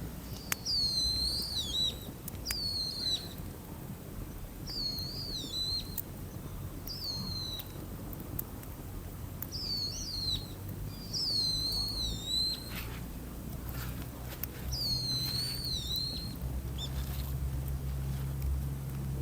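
A bird calling a short whistled phrase that wavers and drops in pitch, about seven times at intervals of one to two seconds, over a low steady hum that grows louder near the end.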